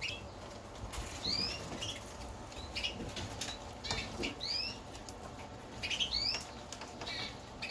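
Young Norwich canaries calling, short rising chirps repeated every second or two, with light clicks and wing flutters as they move about the cage.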